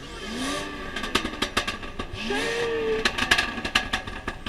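A modified car's engine revving in short blips, rising in pitch and then holding. A rapid run of sharp exhaust pops and crackles sounds between the revs.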